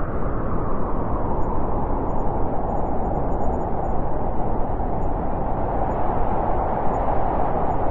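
Steady wind blowing, a continuous rushing noise that deepens slightly in pitch over a few seconds.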